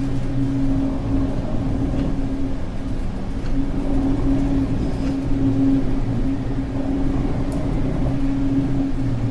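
Steady low drone of a ship's engines and machinery, with a deep rumble underneath.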